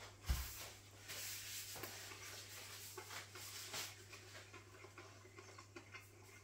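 Close-up chewing of a mouthful of crispy breadcrumb-and-rice-coated chicken burger: faint crunching and scratchy mouth sounds, strongest in the first few seconds. A soft thump comes just after the start as the bite is taken.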